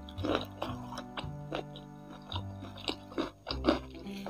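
Chewing of crispy, sauce-coated boneless chicken feet: irregular wet crunches and clicks close to the microphone, over steady background music with low held bass notes.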